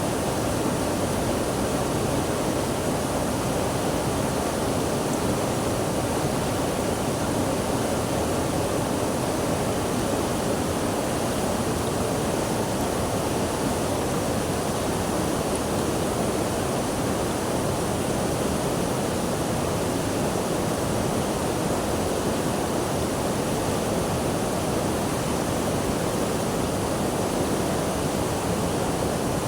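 Water rushing steadily, an even hiss without breaks or changes.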